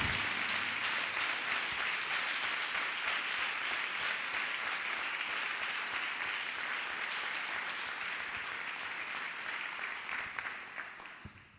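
Congregation applauding steadily, then dying away in the last second.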